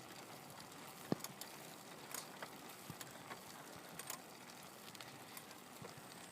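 Faint, irregular clicks and taps from a bicycle being ridden, over a low steady hiss.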